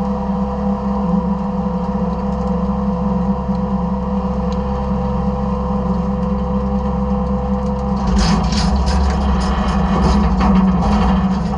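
Side-loader garbage truck's engine and hydraulics running with a steady hum, heard from inside the hopper. About eight seconds in, a burst of clattering and crunching as trash and debris hit the hopper and are pushed around, lasting a few seconds.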